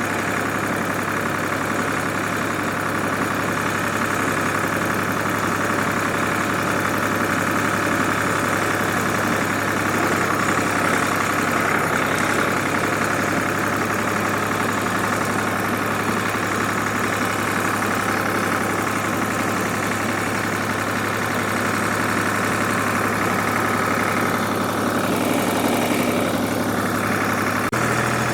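1967 Ford 2000 tractor engine running steadily while it warms up its oil. Near the end the engine note steps up slightly.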